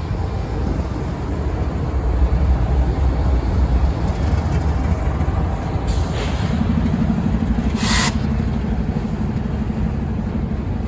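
Freight train rolling past with a steady low rumble, wind buffeting the microphone. Two short hisses come about six and eight seconds in, and a low steady hum joins just after the first.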